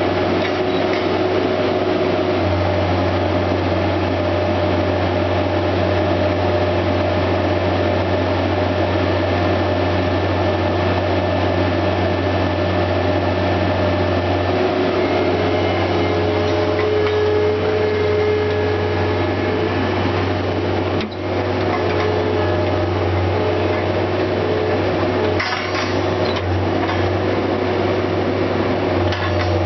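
Skid steer engine running steadily under load as it works a tree spade, a constant low drone with a fainter higher whine that rises, falls and drops in and out, and a few knocks near the end.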